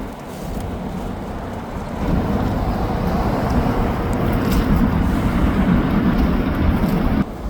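Low rumble of street traffic that grows louder about two seconds in and cuts off abruptly near the end.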